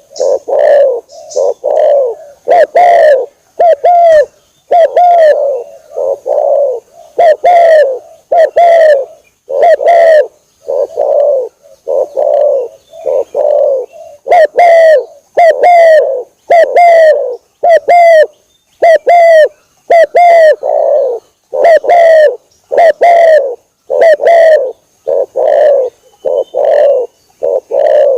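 Spotted dove (tekukur) cooing over and over, loud and clipped, in short repeated coos in groups of two or three. It is a lure call for drawing in doves.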